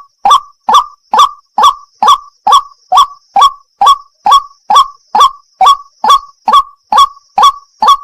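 White-breasted waterhen (wak-wak) calling: a steady, loud series of short, rising 'kwak' notes, a little over two a second. A faint steady high hiss sits under the calls.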